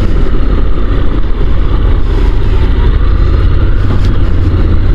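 Honda NC750 DCT motorcycle's parallel-twin engine running steadily under way, with heavy wind rush over the rider's helmet microphone.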